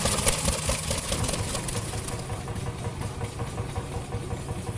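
A vintage engine running at idle with a steady low beat, growing quieter over the first couple of seconds.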